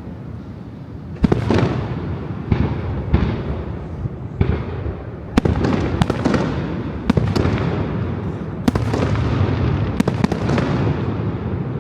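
Aerial fireworks bursting in a fireworks display: about a dozen sharp bangs at irregular intervals, some in quick pairs, over a continuous low rumble of echo between them.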